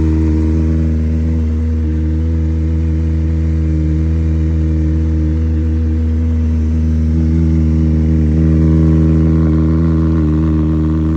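Kawasaki ZX-10R's inline-four engine idling steadily while still warming up after a cold start.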